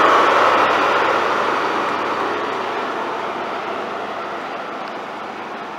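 InterCity 125 high-speed train with Class 43 power car 43206, its running noise a steady rush with no distinct engine note, fading gradually throughout.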